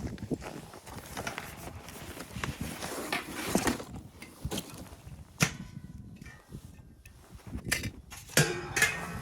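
Irregular knocks and clatter of objects being handled, with a sharp knock about five seconds in and a louder, briefly ringing clank near the end.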